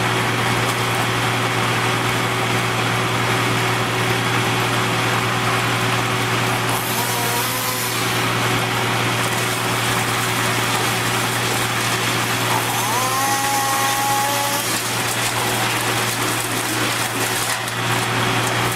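Engine of a tree-felling machine running steadily under load with a constant drone, and brief whining tones about seven seconds in and again after about twelve seconds.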